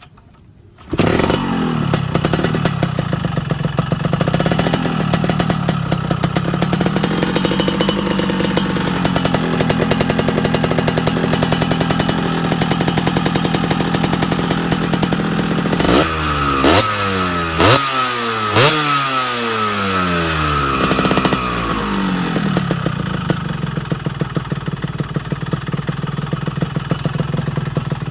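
Yamaha RX-King's single-cylinder two-stroke engine through an aftermarket racing-style exhaust. It starts about a second in and idles, is revved several times in quick succession with sharp cracks a little past halfway, then settles back to idle.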